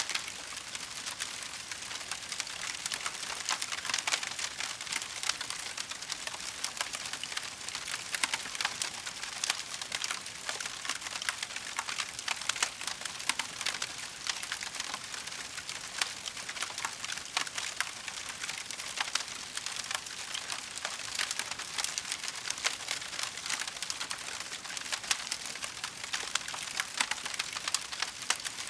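Wood fire in a fireplace crackling steadily, a dense stream of small pops and snaps over a soft hiss, with now and then a louder pop.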